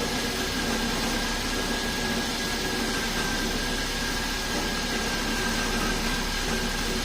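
Mercedes-Benz S300 engine running with a steady whine and noise from its front belt-driven accessories. The upper idler pulleys are noisy and the alternator rattles, which the mechanic takes for a failed bearing inside the alternator.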